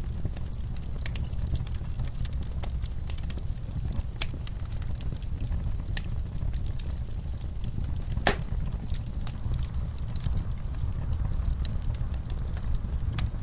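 Wood fire burning in a fireplace: a steady low rumble with frequent irregular crackles and pops, one louder pop about eight seconds in.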